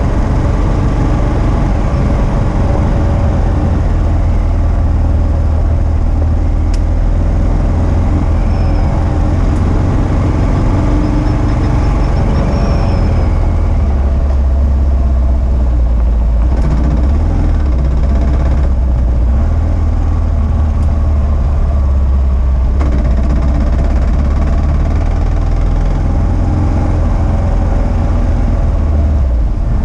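Kawasaki KLR650's single-cylinder engine running steadily as the motorcycle rides along a gravel road, a loud low drone whose pitch drops slightly about halfway through.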